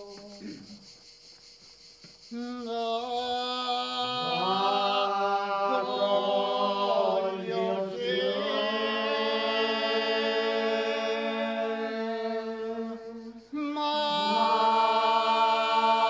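Unaccompanied voices singing a slow traditional chant of the confraternities' Good Friday rites, long held notes that slide between pitches. The singing enters about two seconds in over a fading bit of music and breaks off briefly near the end before resuming.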